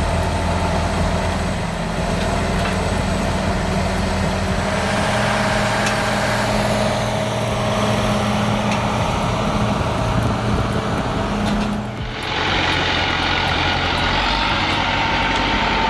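Tractor engine running steadily under load. About twelve seconds in, the sound changes abruptly to a brighter, hissier engine sound.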